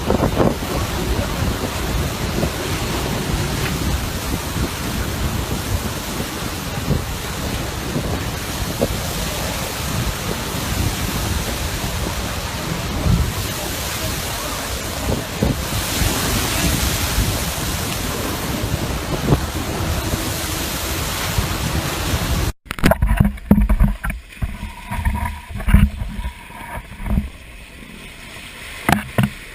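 Ocean surf, steady and rushing, with wind buffeting the microphone. About three-quarters of the way through it cuts off abruptly to a quieter background broken by irregular low thumps and knocks.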